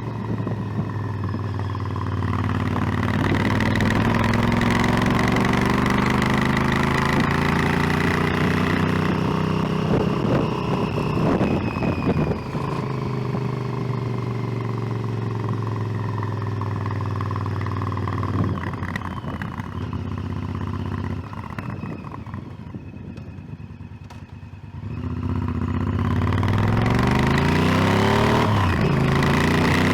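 Motorcycle engine running under way, its revs climbing and holding steady, then dropping and going quieter as the throttle is rolled off about two-thirds of the way through, before climbing again near the end.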